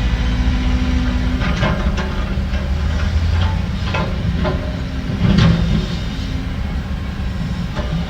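Heavy diesel earthmoving machinery running steadily, with several sharp metallic clanks and rattles.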